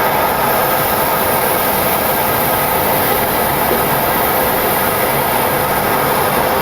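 Steady, loud cockpit noise of a Boeing 727-200 climbing out at takeoff thrust just after gear retraction: rushing air and engine noise, with a faint steady hum running through it.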